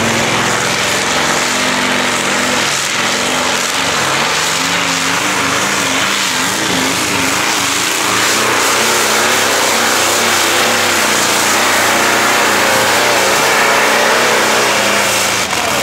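Tractor-pulling machine's engine running loud and steady, its pitch wavering slightly over a dense roar.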